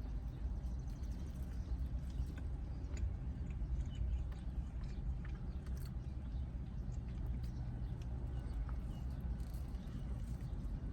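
Quiet chewing of a steak, egg and cheese bagel sandwich, with faint scattered small mouth clicks over a steady low hum.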